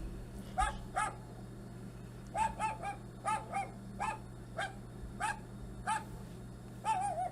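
Recorded dog barks played back through a device speaker: about a dozen short single barks at irregular intervals, some in quick pairs, over a steady low hum.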